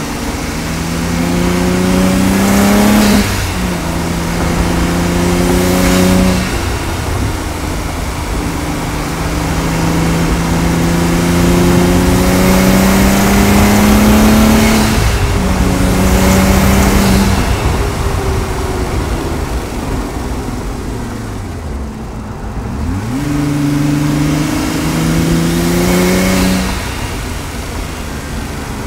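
Audi S4 engine accelerating hard through the gears. The revs climb and drop at upshifts about 3 and 6 seconds in, then there is a long pull with another shift at about 15 seconds and one at about 17. The revs fall away around 20 seconds as the car slows, then climb through two more shifts near the end.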